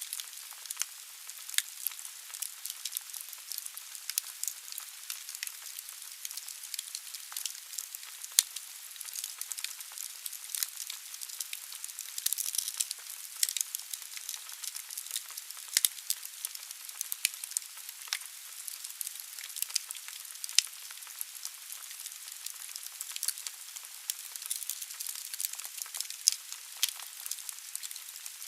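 Wood fire burning in a fireplace: a steady hiss of flames with dense, irregular crackling and a few louder sharp pops.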